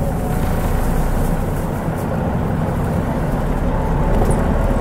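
Mitsubishi Fuso Aero Star city bus's 6M70 turbocharged inline-six diesel and running noise, heard from inside the cabin as a steady low rumble.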